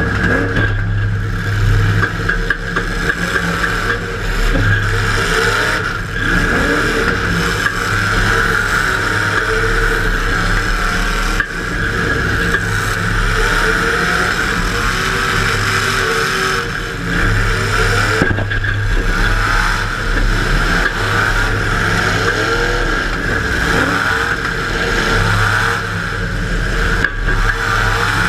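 Demolition derby car's engine revving up and down over and over, heard from inside the car, with clatter and a few sharp knocks.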